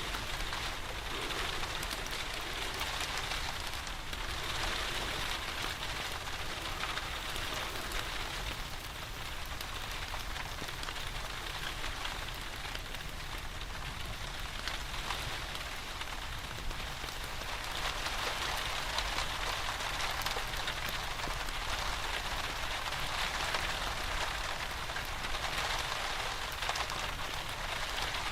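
Steady rain falling in an even, continuous patter.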